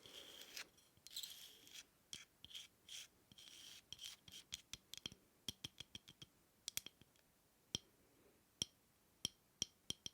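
Faint close-up scratching and rubbing on a hard object in short strokes, then from about four seconds in a long run of light, irregular taps, each with a brief high ring.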